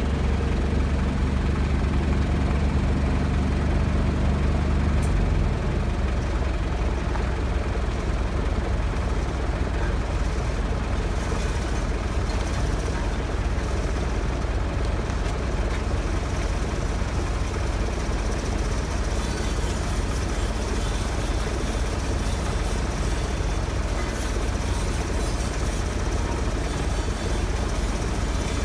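A heavy diesel engine running steadily; about five seconds in its low drone drops to a lower, rougher setting and keeps running.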